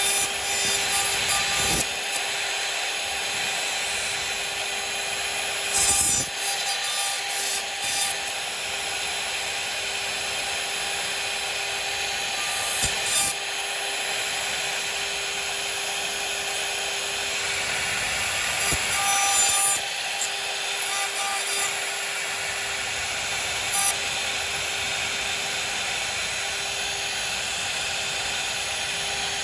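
CNC router running with a steady whine while its bit cuts wood, giving a continuous rasping cutting noise with brief louder bursts every few seconds.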